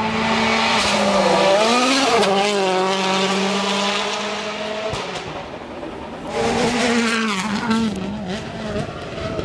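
Rally car engine revving hard, its pitch climbing and dropping with throttle and gear changes as the car runs past at speed. The sound fades about five seconds in, then a second loud run of revving starts a second or so later.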